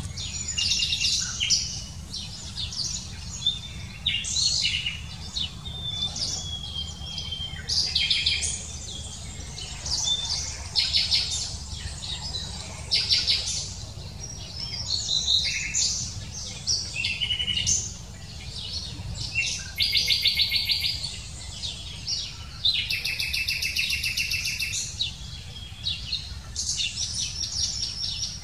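Birds chirping and singing, with many short chirps and fast rattling trills in repeated bursts. A steady low rumble runs underneath.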